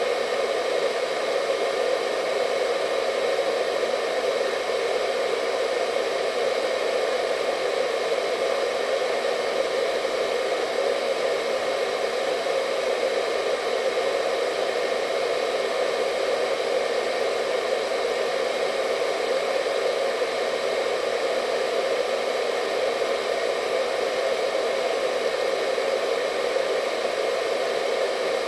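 Hair dryer running steadily: a constant rush of blown air with a faint motor whine above it.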